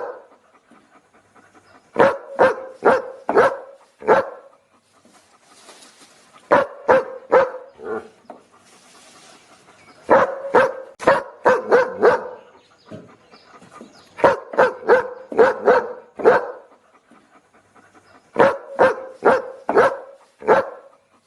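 A dog barking in quick runs of five or six barks, each run about two seconds long and followed by a pause of about two seconds, five runs in all.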